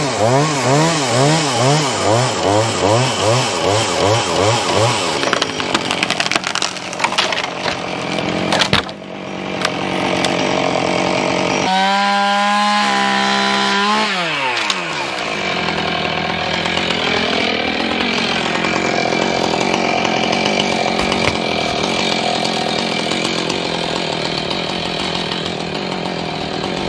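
Chainsaw at work. The throttle blips rapidly up and down for the first few seconds. There is a sharp knock about nine seconds in. The saw then screams at high speed and drops in pitch as it bites into the wood, and keeps cutting.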